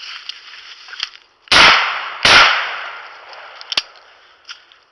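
Two shotgun shots fired in quick succession, about three-quarters of a second apart, at a flushing woodcock in thick cover, each followed by a short fading echo.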